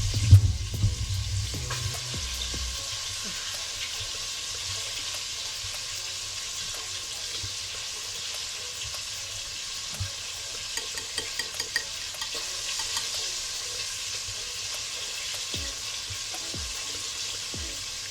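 Chicken wings frying in hot oil with a steady sizzle and crackle, while waffle batter is stirred in a bowl; a few low knocks in the first couple of seconds and a short run of small clicks around eleven to twelve seconds in.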